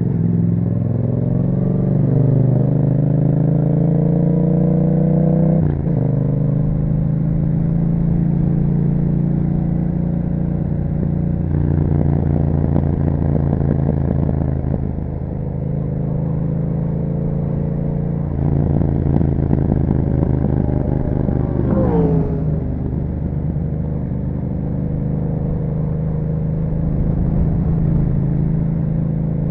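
A 2021 Yamaha MT-07's parallel-twin engine running through an Akrapovic exhaust while riding. The revs climb for the first few seconds and drop suddenly at a gear change about six seconds in, then run fairly steadily, with a quick fall in revs about two-thirds of the way through.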